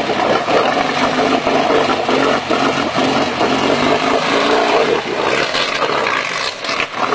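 Volkswagen Beetle's air-cooled flat-four engine revving hard under load as the car pushes through deep mud, its note rising and falling. The sound dips briefly near the end.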